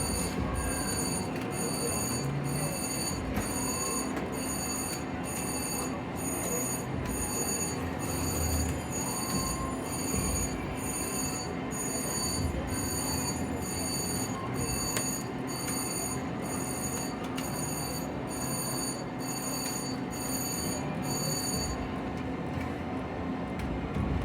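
Slot machine chiming in rapid high-pitched electronic pulses, about two a second, over the steady din of a casino floor. The chiming stops about two seconds before the end, leaving only the casino background.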